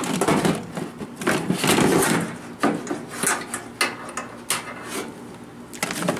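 Objects being handled and moved about: an irregular run of knocks, scrapes and rubbing, with wood-like knocks.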